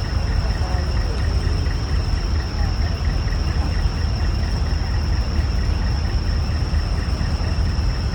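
Heavy decorated truck's (dekotora) diesel engine idling with a steady low rumble.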